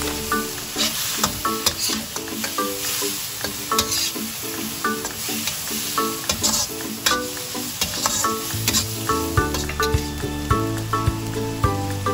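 Shrimp and onion sizzling in hot oil in a wok while a metal utensil stirs them, clicking and scraping against the pan. Light plucked background music plays underneath, its bass coming back in near the end.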